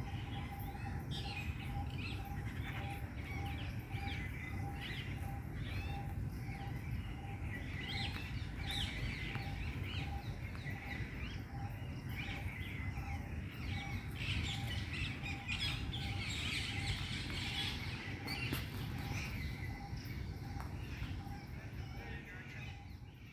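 Small birds chirping and calling, with one note repeated evenly at about two to three a second, over a steady low outdoor rumble.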